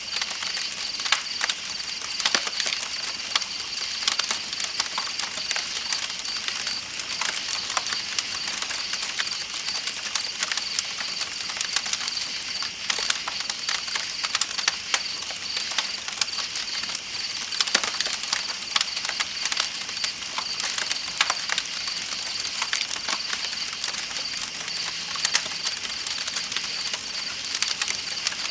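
Campfire crackling with irregular sharp pops, over a steady high chirring of night insects and the constant hiss of flowing river water.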